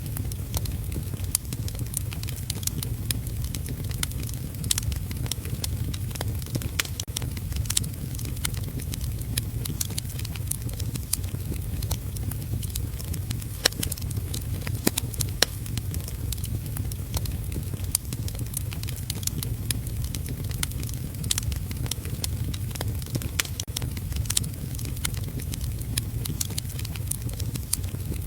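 Wood fire crackling in a fireplace, with frequent sharp pops and snaps, over a steady low rumble and the even hiss of heavy rain.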